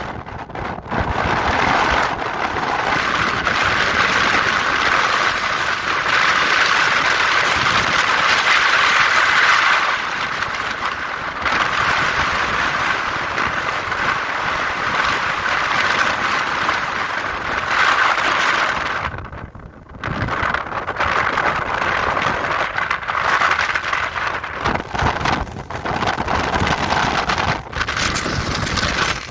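Strong wind blowing in steady gusts with a rushing sound, dropping off briefly about two-thirds of the way through.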